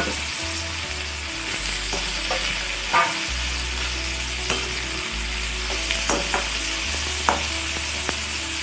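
Potato pieces and chopped tomatoes sizzling in ghee in a metal kadai, a steady hiss, with a metal spatula scraping and clinking against the pan several times as they are stirred.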